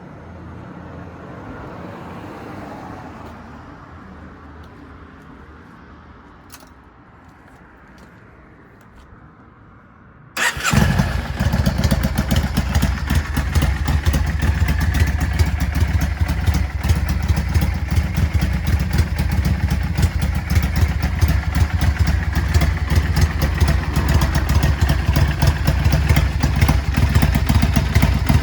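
After about ten seconds of faint background with a few light clicks, a Yamaha DragStar 400's V-twin engine starts abruptly and runs steadily through a custom-built muffler, tuned for a Harley-style three-beat idle.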